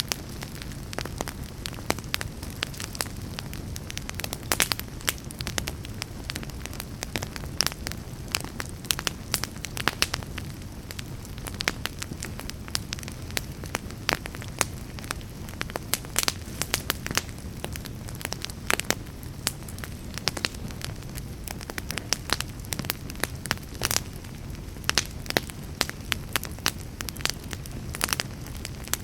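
Fire burning in a fireplace, crackling with frequent sharp pops at irregular intervals over a steady low rumble of the flames.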